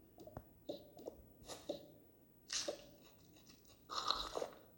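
Soft scattered clicks and a few short rustling noises, the loudest a pair of brief swishes about two and a half seconds in and another about four seconds in.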